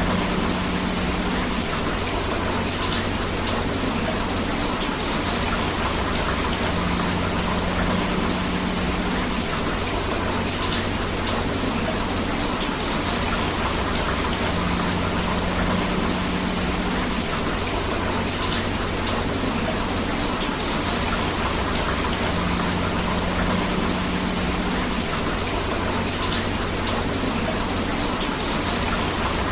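Steady rain falling together with a rushing river: a dense, even hiss of water that never lets up.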